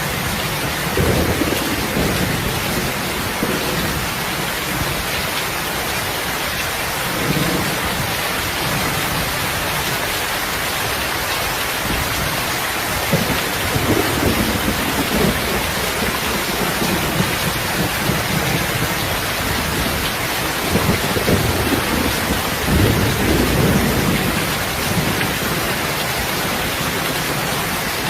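Steady rain falling, an even hiss, with several low rumbling swells rising and fading: about a second in, around the middle and again near the end.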